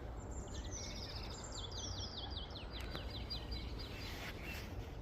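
A songbird giving a rapid run of short, high chirps, each sliding downward in pitch, for about three seconds, over a steady low background rumble.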